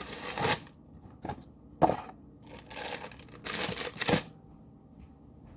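Packaging crinkled and pulled at by hand while trying to tear it open, in several rustling bursts with a sharp click about two seconds in, then going quiet after about four seconds.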